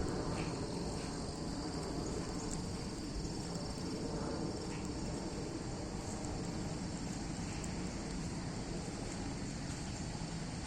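A steady, unbroken chorus of insects such as crickets, high-pitched, over a low, even rumble.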